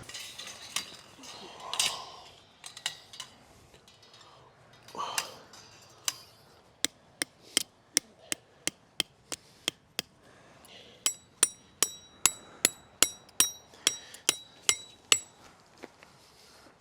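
Tent pegs being hammered into the ground: a run of sharp strikes, about three a second, then after a short pause a second run in which each strike rings with a high metallic tone.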